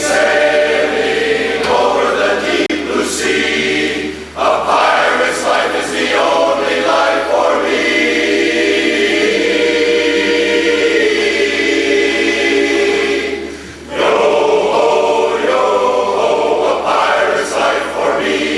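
A barbershop chorus singing a cappella in close harmony, with a long held chord in the middle and short breaks about four and fourteen seconds in.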